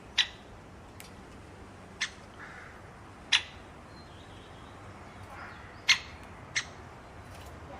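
A bird giving short, sharp calls, five in all, spaced irregularly a second or two apart.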